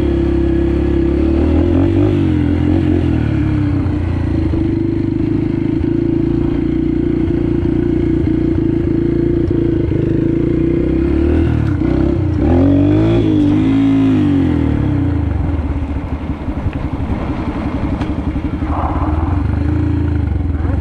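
Yamaha TT-R125 pit bike's single-cylinder four-stroke engine running under way, mostly at steady revs. The revs rise and fall about two seconds in and again midway through, then drop back and run a little quieter and rougher near the end.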